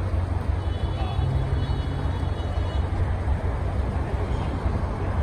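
Steady low rumble of car engines, with a faint high-pitched whine for about two seconds near the start.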